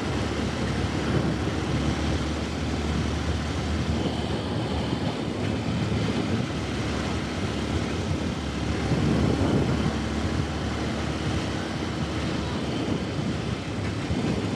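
A 150cc motorcycle engine running steadily at road speed under a steady rush of wind and road noise.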